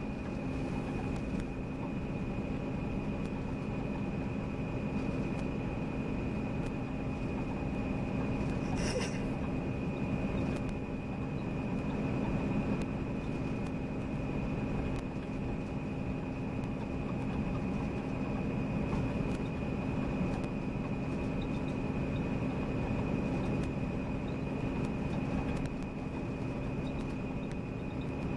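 Volvo B9R coach driving along: steady engine and road rumble with a constant whine, and a brief high-pitched squeak or click about nine seconds in.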